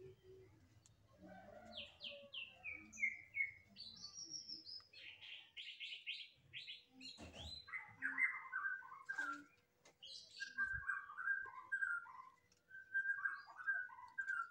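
A songbird singing: a run of falling notes, then a fast trill, then short phrases repeated over and over.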